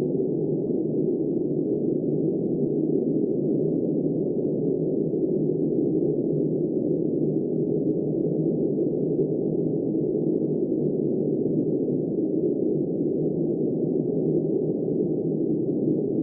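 Steady blizzard wind, a dull, even low rush with no gusts or breaks.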